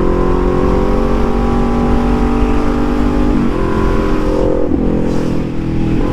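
Suzuki GSX-R750 inline-four engine running while the bike is ridden. Its note sags slowly, steps up about three and a half seconds in and changes again near five seconds, with wind rush underneath.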